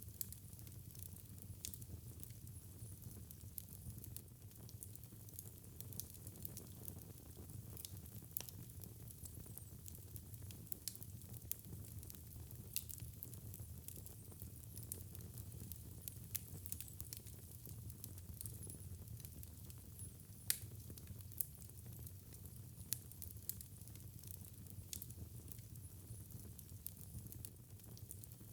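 Wood fire in a fireplace crackling, with irregular sharp pops and snaps over a low, steady rumble of burning; one pop about two-thirds of the way in is louder than the rest.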